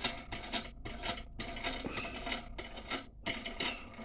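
A steel nut being wound off a half-inch threaded rod by hand tool: a quick run of metallic rasping strokes, about three or four a second.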